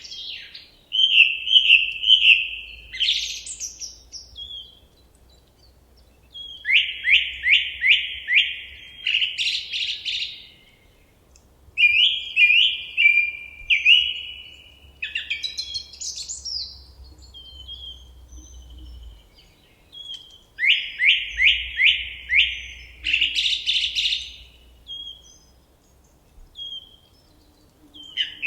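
A songbird singing short, repeated phrases every few seconds, each a quick run of downward-sweeping notes that ends in a higher flourish, with a faint low rumble of forest ambience beneath.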